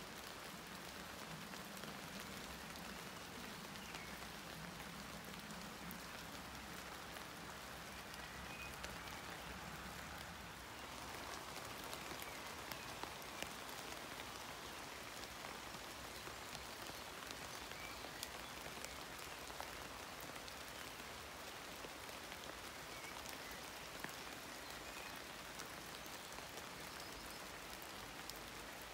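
Steady rain falling on horse chestnut leaves: an even, fairly quiet hiss with many small scattered drop ticks.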